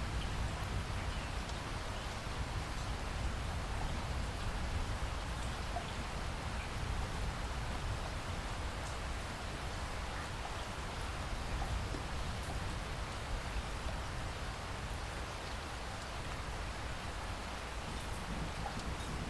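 Steady rain falling, with faint scattered drop ticks over an even hiss and a low rumble underneath.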